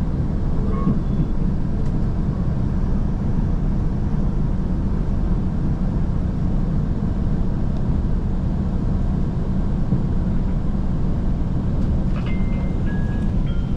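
Steady low rumble of a KiHa 185 series diesel express train running. Near the end a short chime-like melody of stepped high notes begins.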